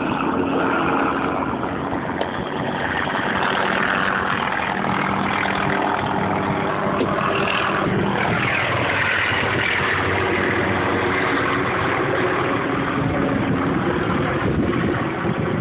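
A steady engine drone with a constant low hum, and something passing by about eight seconds in.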